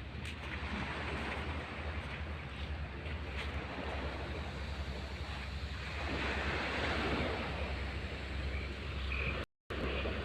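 Sea waves washing onto the shore, with wind buffeting the microphone in a low rumble. A wave rushes in louder about six seconds in, and the sound drops out for a moment near the end.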